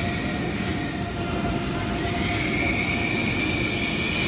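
ICE high-speed electric train running: a steady rumble with a thin electric whine over it, which rises a little about two seconds in.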